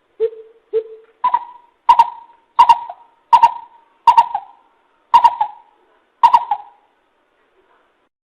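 Coucal (bìm bịp) calling: a series of about nine hooting notes. The first two are lower, and the rest are higher and louder, coming a little under two a second, until the series stops about six and a half seconds in.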